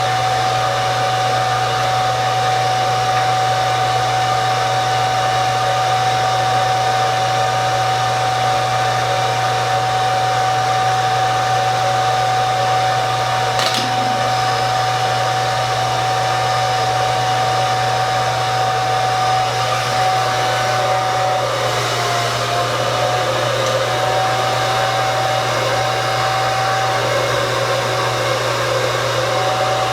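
Handheld hair dryer running steadily, blowing air with a constant whine. A brief click comes about 14 seconds in, and the whine's pitch dips briefly past the middle.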